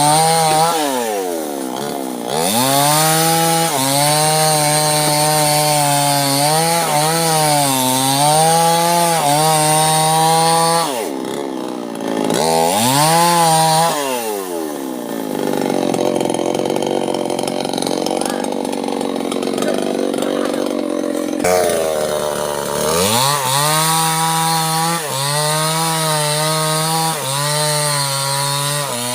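Two-stroke chainsaw running at high revs while cutting sengon wood. The engine note drops away and climbs back three times, about a second in, around the middle, and near the end. For several seconds before the last drop the steady note gives way to a rougher, noisier sound.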